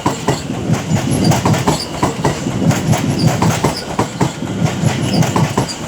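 London Overground electric multiple unit pulling out, its wheels clicking rapidly and steadily over rail joints and pointwork above a low running rumble.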